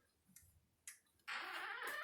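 A door being opened: two light clicks, then, about a second and a quarter in, a loud, steady scraping, rolling sound as the door moves.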